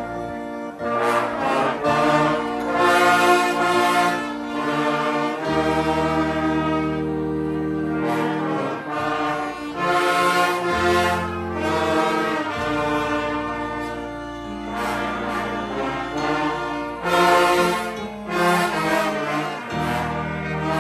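A brass band playing held chords that change every second or two, over long low bass notes.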